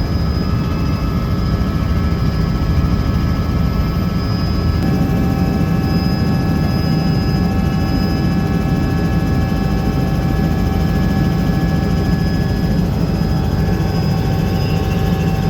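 Helicopter in flight: a loud, steady rotor and engine drone with a few thin, steady whining tones above it.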